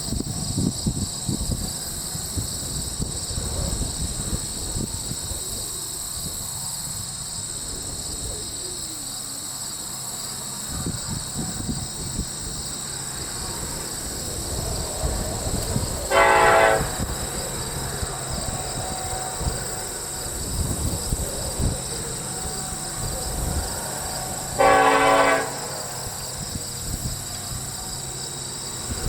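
BNSF coal train's lead diesel locomotives approaching with a low rumble, sounding the air horn twice: a short blast about 16 seconds in and a longer one about 25 seconds in. A steady high drone of insects runs underneath.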